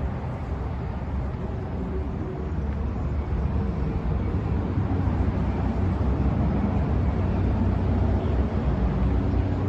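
Scania P 320 truck's diesel engine running with a steady low rumble, growing a little louder over the second half.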